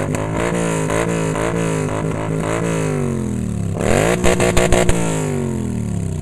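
Cruiser motorcycle engines running as the riders blip their throttles, the engine note rising and falling over and over. About four seconds in, one is revved up higher, held briefly, then drops back to idle.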